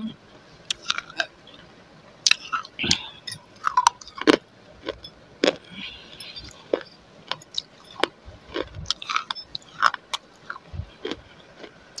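A person chewing a roll of baked clay right at a lavalier microphone: irregular sharp crunches and mouth clicks, with another bite taken near the end.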